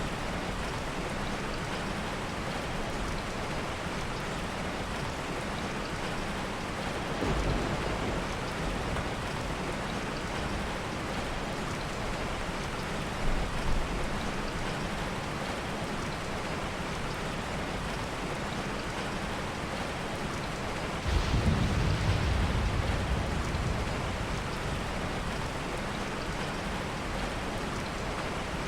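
Steady heavy rain with soft thunder rumbling low, once about 7 seconds in and again, louder and for a few seconds, about 21 seconds in. Two short sharp knocks stand out around 13 seconds in.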